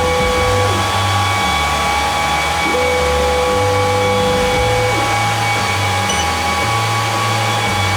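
Laser engraver-cutter at work: steady cooling and air-assist fan noise, with a stepper-motor whine that glides up, holds for about two seconds and glides down, twice, as the head moves.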